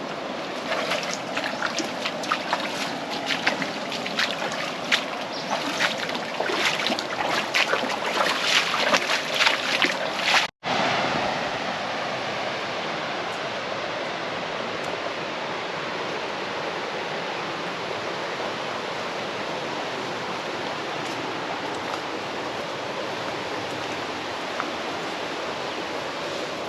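Creek water running steadily over rock. For the first ten seconds it is broken by many short, irregular splashes and knocks; after a brief cut about ten seconds in, only the steady rush of the water remains.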